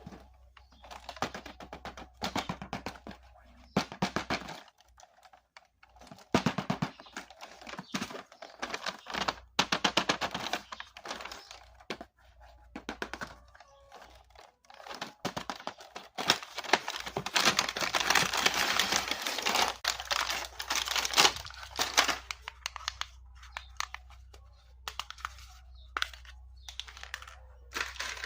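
Packaging being handled: crinkling and rustling with irregular clicks and taps, thickening into a few seconds of continuous crinkling near the middle.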